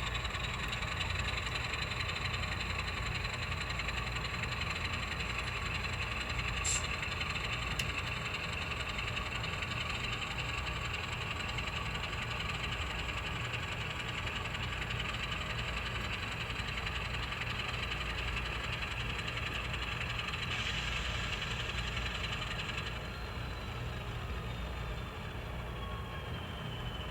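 N scale model train locomotive running on the layout track, a steady motor hum with wheel noise; near the end the pitch slides down slightly as it eases off.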